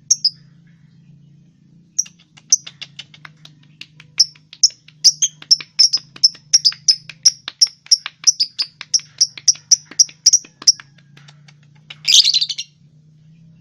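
Lovebirds chirping: a long run of sharp, high chirps at about three a second, then one harsh screech near the end, over a faint steady low hum.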